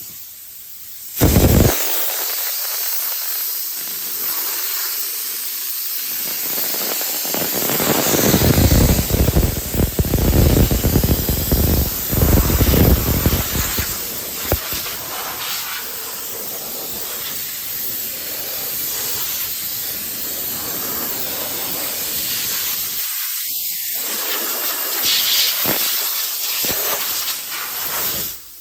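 High-pressure spray hissing loudly and steadily, starting about a second in and cutting off just before the end, with a deeper rumble for several seconds in the middle.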